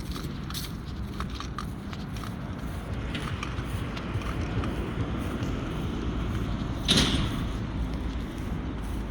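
Footsteps on a path, about three a second, fading out after the first second or two. Then a low rumble builds, with one short, loud rushing burst about seven seconds in.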